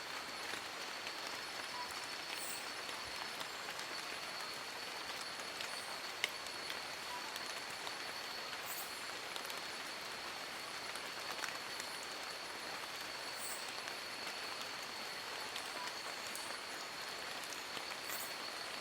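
Steady rain falling on forest leaves, an even hiss with scattered single drops ticking close by. A thin steady high tone runs under it, and a few brief faint high chirps come now and then.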